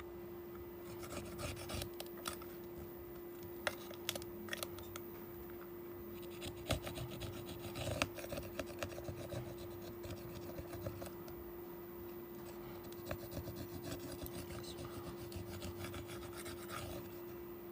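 Small hand tool scraping and rubbing in short irregular strokes, with scattered sharp clicks, over a steady low hum.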